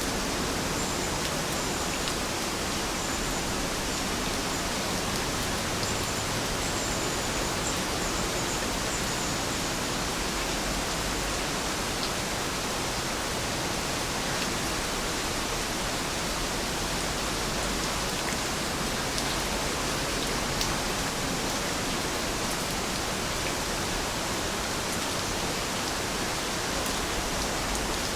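Heavy rain falling in a steady, even hiss that does not let up.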